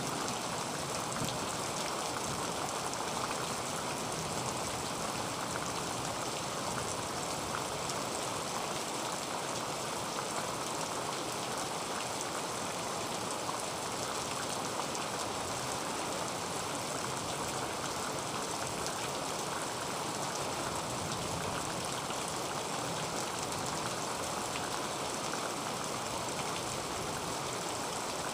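Heavy rain falling steadily on a tin roof: a dense, even hiss with many individual drops ticking through it.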